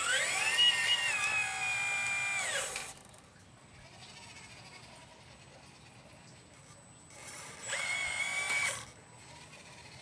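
Electric motor of a 1/12 scale RC Liebherr 954 excavator whining under control. It spins up quickly, runs steadily for about three seconds and winds down, then gives a second, shorter whine of about a second near the end.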